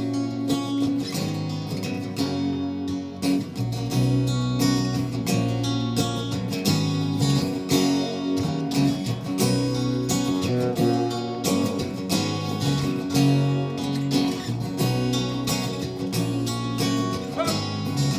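Instrumental song intro from a band playing live: strummed acoustic guitar with a bass line coming in about four seconds in.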